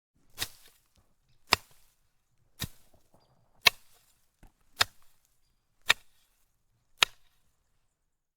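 Seven sharp strikes at a steady pace, about one a second, each cut short with a brief tail.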